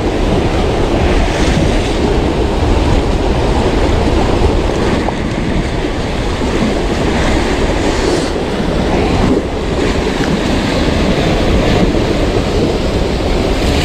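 Sea surf washing against the shore rocks, with wind buffeting the microphone in a steady low rumble.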